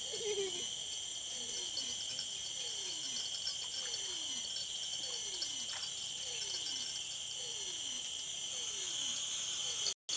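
Night insect chorus of crickets, a steady high shrilling, with a low call falling in pitch repeated about every three-quarters of a second from an unseen animal. The sound cuts out for an instant near the end.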